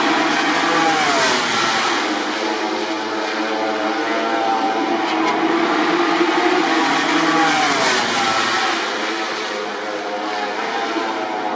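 1000 cc four-stroke MotoGP racing motorcycles passing at speed, the engine note falling as each goes by: one pass about a second in and another around eight seconds, over a steady background of other engines running.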